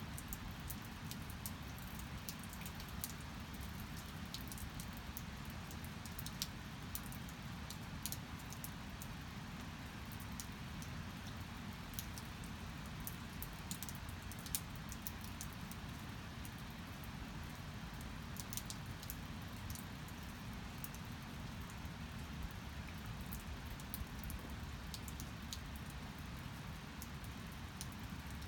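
Steady rain falling, a fairly faint even hiss, with many short sharp ticks and drips scattered through it.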